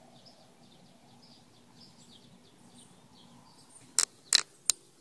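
Faint bird chirps over a quiet background, then about four seconds in, three sharp clicks in quick succession from handling gear.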